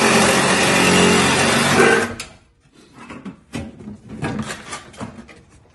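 Electric power saw cutting through the truck's floor material, running steadily and then stopping abruptly about two seconds in. Scattered short knocks and scrapes follow as the cut pieces are handled.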